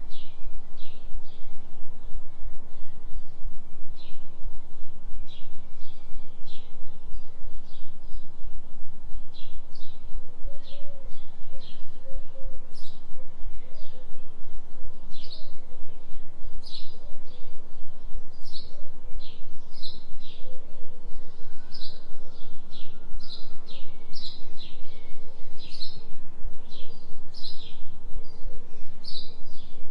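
A steady low binaural tone set for a 3 Hz delta beat, pulsing quickly in loudness, under a recording of forest birds chirping many short notes. A faint, wavering lower call sits beneath the chirps.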